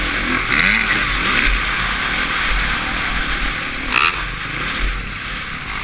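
Suzuki RM-Z450's single-cylinder four-stroke motocross engine revving up and down as it is ridden, heard through a helmet-mounted camera over a steady rush of wind noise. A sharp knock comes about four seconds in.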